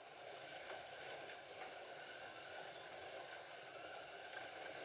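Several Scalextric slot cars running together on the track, a steady whir of their small electric motors and pickups on the rails, starting sharply as the race gets under way. A few short high beeps come near the end.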